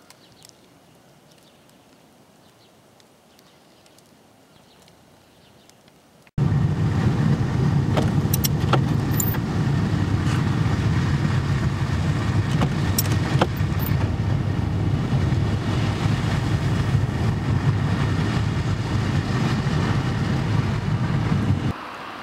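A faint steady hiss, then a sudden cut about six seconds in to a loud, steady car running sound with a low engine and road rumble and a few sharp clicks.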